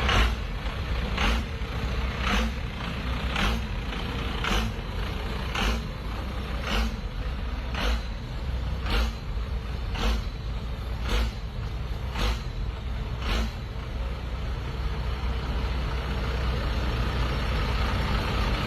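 A motor vehicle's engine running steadily, with a short sharp noise repeating about once a second that stops near the end.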